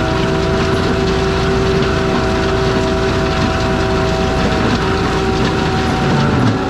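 ASV RT-120F compact track loader running its forestry mulcher head: a steady machine drone with a whine held at one pitch, which shifts slightly about six seconds in.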